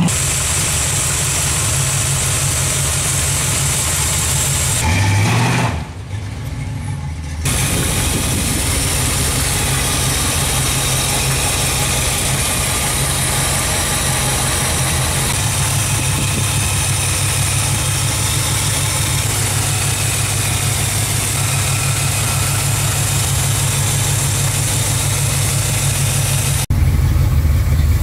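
Camaro's carbureted V8 idling steadily. Near the start a car engine passes, its pitch rising then falling, before the sound cuts to the steady idle.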